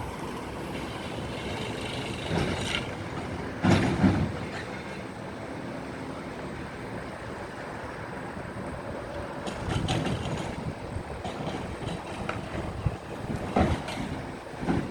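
Garbage truck running steadily, with several loud metal clanks and thumps: one about four seconds in, another near ten seconds, and two more near the end.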